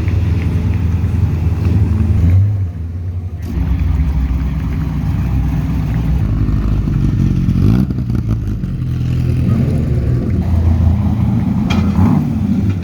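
Race car engine running under throttle, with a brief lift about two and a half seconds in and the revs changing again around eight seconds.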